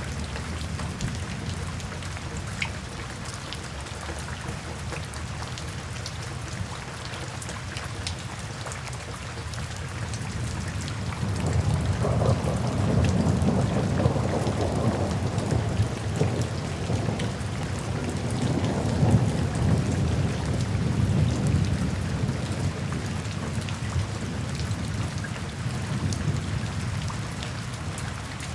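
Steady rain falling, with a low rumble underneath that swells louder a little before halfway and eases off again in the last few seconds.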